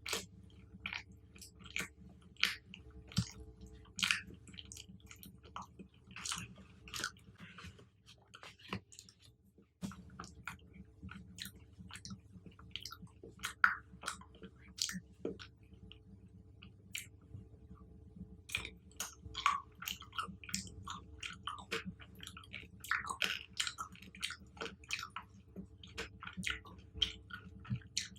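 Close-miked chewing of fruit: irregular wet smacks, squishes and small crunches, with a short pause about a third of the way in.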